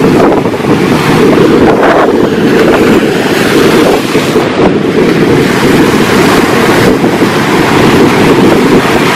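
Strong wind buffeting the microphone over ocean surf: a loud, steady rush without breaks.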